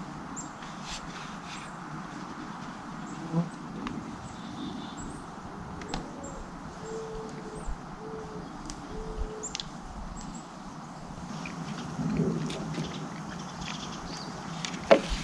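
Outdoor ambience with small birds chirping in short, high calls over a steady background hiss. A short low note repeats a few times midway, and there are a few scattered clicks.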